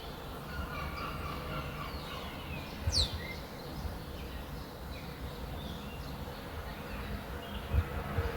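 Birds calling over a steady low background rumble: faint scattered chirps and one sharp falling call about three seconds in. Two low thumps stand out, one with that call and one near the end.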